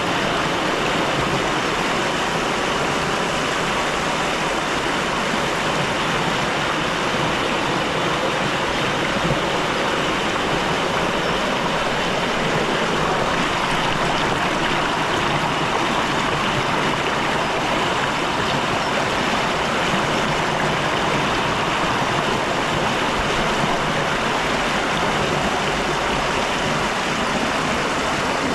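Fast-flowing stream rushing steadily.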